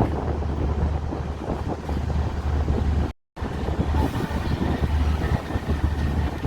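Passenger train running, heard from on board: a steady low rumble of the moving coaches with wind noise on the microphone. The sound cuts out for a moment about three seconds in.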